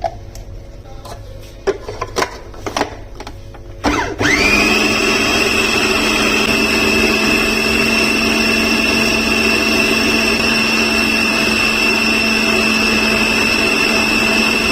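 A few light clicks and knocks, then about four seconds in an electric kitchen motor switches on. It spins up quickly and runs steadily at one pitch for about ten seconds before cutting off sharply.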